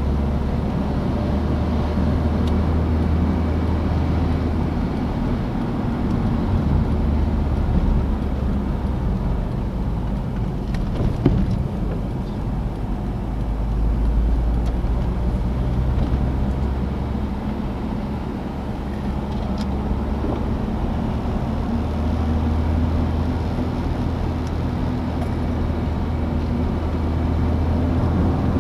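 Citroën DS being driven: a steady low engine drone with road and wind noise, easing a little and swelling again as the car's speed changes, with one sharp click about eleven seconds in.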